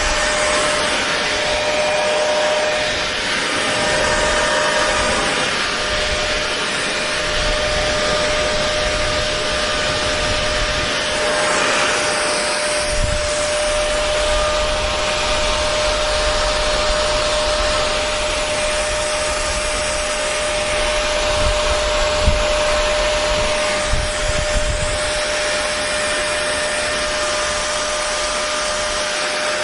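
Hair dryer running continuously: a steady rush of air with a constant motor whine, and a few brief low bumps in the airflow late on.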